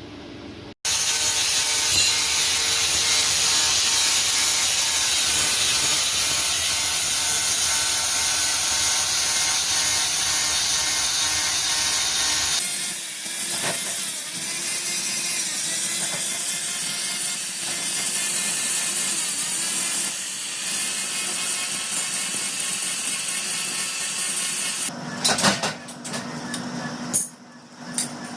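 Abrasive grinding on the steel of a forged sledge hammer head, a steady hissing grind from a power grinder whose motor pitch wavers under load. The sound starts abruptly, changes in character about halfway through, and breaks up again near the end.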